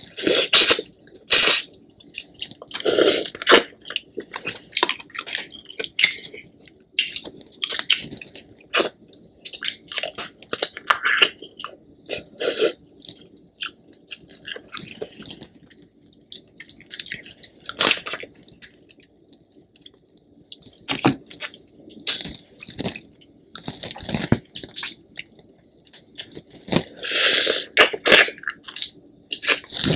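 A person eating king crab meat close to the microphone: chewing and wet lip smacks in irregular runs, with short pauses between them.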